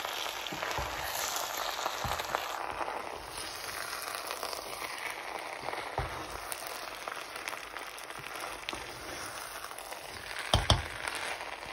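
Rice, chicken and spices sizzling in hot oil in a pan while being stirred, a steady crackling hiss. A couple of sharp knocks come near the end.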